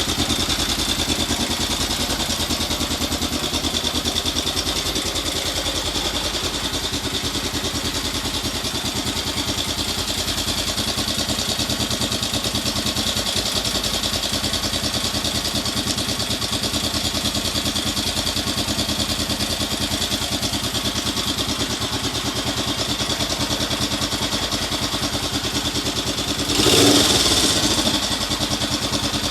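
1967 Honda CL77 305 Scrambler's air-cooled parallel-twin engine idling steadily, warming up after a cold start without choke. Near the end it revs up briefly once and drops back to idle.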